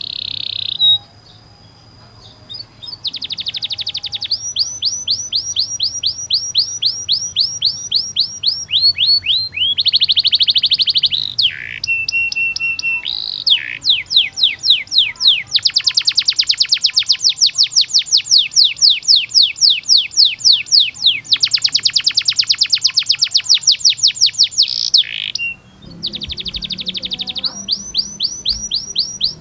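Domestic canary singing a long series of rapid trills ('rolls'), each made of quickly repeated notes that fall in pitch, switching between phrase types every few seconds. A long, very fast roll runs through the middle.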